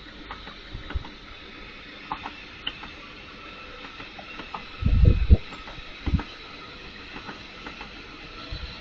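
Trackside railway sound: a steady hiss with a faint whine, broken by a few heavy low thumps about five and six seconds in, like a train's wheels knocking over rail joints.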